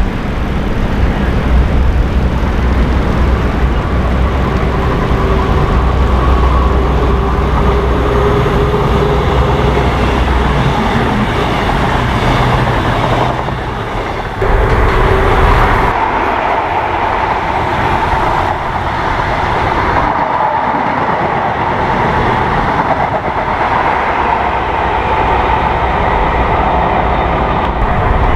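Diesel train passing on the line, its engine note strong in the first half, then a steady rumble of wheels on the rails.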